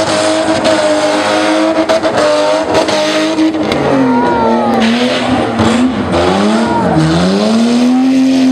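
Old BMW saloon's engine running hard as the car slides across a dirt arena, its note held steady for the first few seconds, then falling, dipping lowest about seven seconds in and climbing again, with tyres skidding on the dirt.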